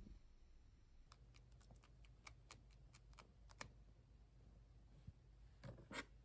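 Faint scattered clicks and small sticky pops of purple shaving-foam slime being handled, with a slightly louder cluster of pops near the end.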